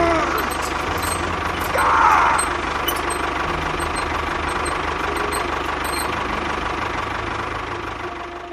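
An engine running steadily, with a brief wavering squeal about two seconds in.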